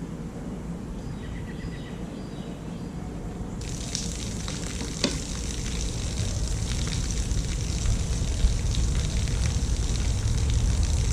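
Boat live well being drained: water rushing and splashing out as a crackly hiss that starts suddenly about three and a half seconds in, over a low rumble that grows steadily louder.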